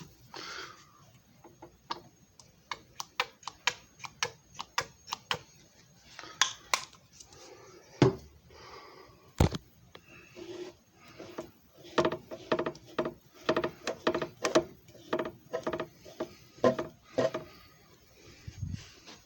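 A run of sharp clicks and knocks from hard objects being handled. They are scattered at first and come a few a second in the second half.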